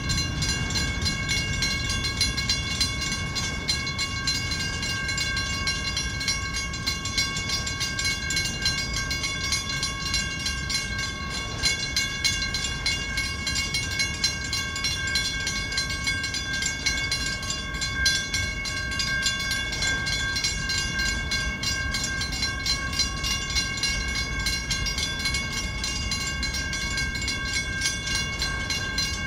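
Freight train cars rolling steadily past, their wheels rumbling on the rails, with a steady high-pitched ringing tone held over the rumble the whole time.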